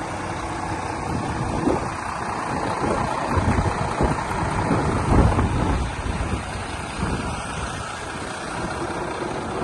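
Volvo FM420 tractor unit's 13-litre six-cylinder diesel engine idling, with wind gusting on the microphone.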